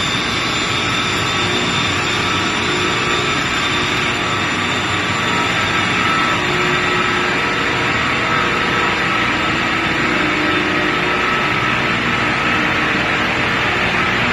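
Trane CenTraVac centrifugal chillers running: a loud, steady machine drone with a broad hiss and a few faint, steady whining tones.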